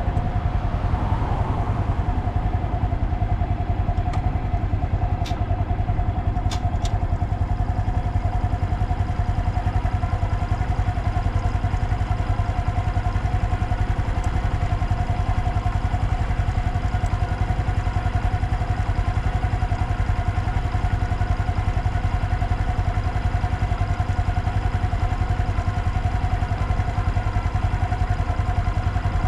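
Honda DAX125's single-cylinder four-stroke engine idling steadily through a Takegawa normal-look sport muffler.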